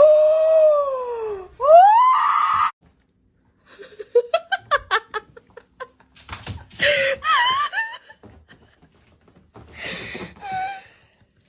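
A long falling cry and a short rising one, then laughter in quick pulses of about four a second, followed by more wavering, excited vocal sounds.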